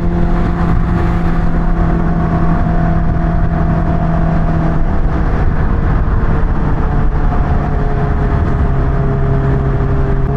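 Kawasaki Ninja H2's supercharged inline-four running at a steady cruise under a rider, with wind rush, its note stepping down slightly in pitch about halfway through.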